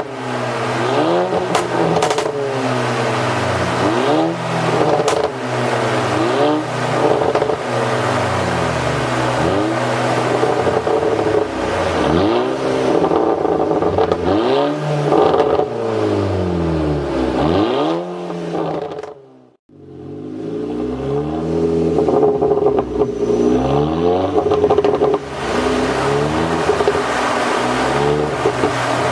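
Volkswagen Scirocco engine with a Stage 2 remap and pop-and-bang map, revved up and down over and over, with exhaust pops and crackles as the revs drop. The sound cuts out briefly about two-thirds of the way through, then the revving carries on.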